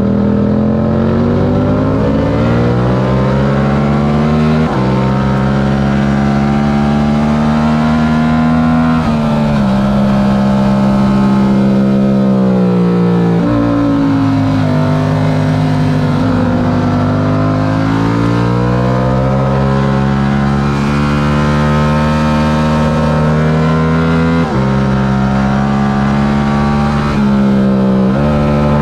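A stock Yamaha R7's parallel-twin engine running hard under racing load. The revs climb and fall with the track, with sudden jumps in pitch at the gear changes.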